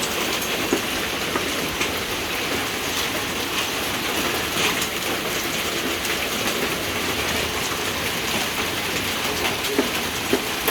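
Heavy hail falling hard: a dense, steady clatter of hailstones striking surfaces, with many sharp individual ticks.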